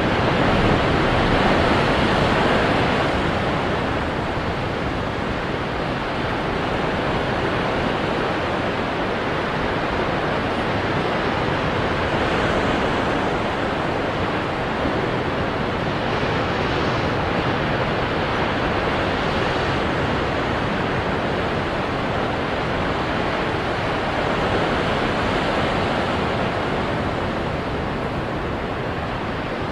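Ocean waves breaking on rocks: a continuous rush of surf, louder for the first few seconds and then swelling and easing gently.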